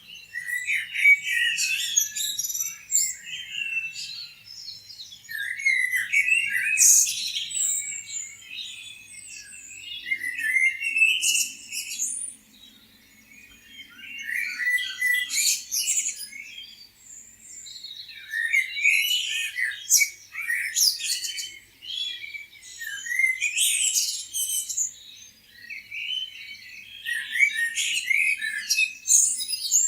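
Several songbirds chirping and singing in quick, overlapping phrases, with a short lull about halfway through.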